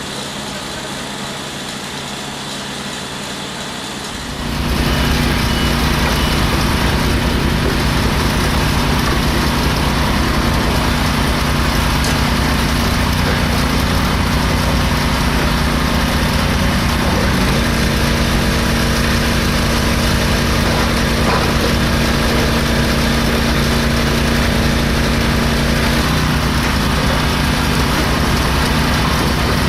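Construction machine's engine running steadily, stepping up suddenly to a louder, even drone about four seconds in.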